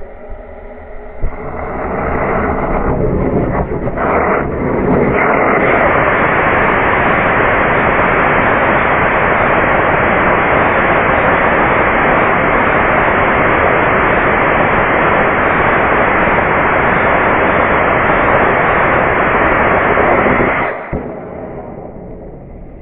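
Static firing of a 75 mm L832 solid rocket motor burning an ammonium perchlorate, strontium nitrate and magnesium propellant. It lights with a sharp pop about a second in, builds unevenly over a few seconds into a loud, steady rushing noise, then cuts off suddenly near the end as the burn ends.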